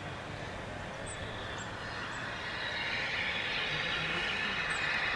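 A train approaching on the railway: a steady rushing rumble that grows louder over the last couple of seconds.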